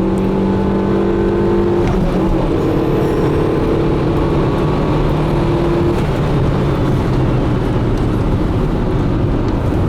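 Daewoo Lanos 1.5-litre A15SMS four-cylinder engine running under way, with road noise. Its pitch breaks about two seconds in and settles lower about six seconds in.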